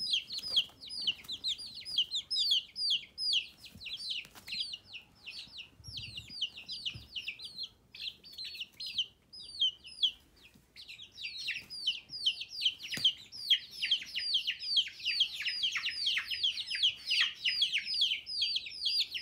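Several baby chicks peeping: a constant stream of short, high, falling peeps, several a second, that thins out briefly about halfway through and then grows dense again.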